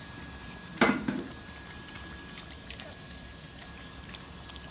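Labrador puppy lapping milk: scattered small clicks, with one louder thump about a second in.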